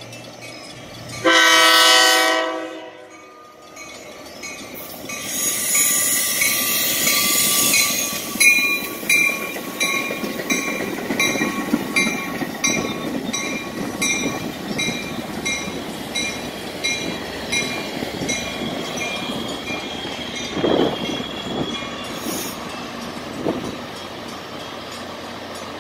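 Metra bilevel commuter train sounding a short horn blast about a second in, then passing close and slowing along the platform with a rush of wheel and air noise. A grade-crossing bell dings at an even pace through the passing, with a thin squeal as the train slows.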